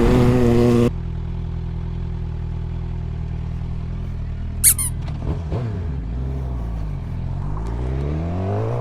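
Suzuki GSX-R sportbike's inline-four engine running at a steady highway pace. It is louder for the first second, then drops abruptly. About five seconds in the revs fall, then climb steadily again near the end. A brief high squeak sounds about halfway through.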